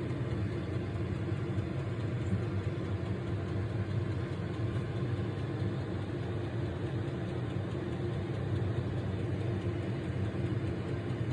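Diesel air heater running steadily, its fan and burner making a constant low hum with a few steady tones.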